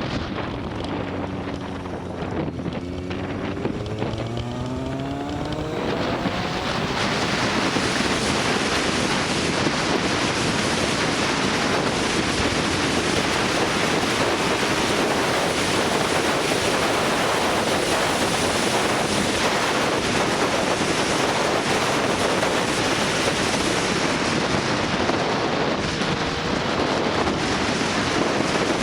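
Motorcycle engine accelerating, its note rising over the first few seconds. Then heavy wind rush on the microphone at road speed buries the engine, running steadily to the end.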